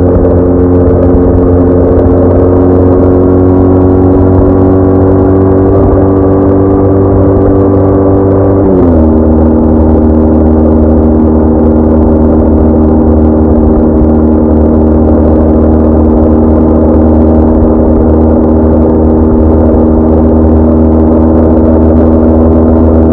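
BMW R1200R boxer-twin motorcycle engine under way. Its note climbs slowly as the bike accelerates, drops sharply about nine seconds in at an upshift, then holds steady at cruise.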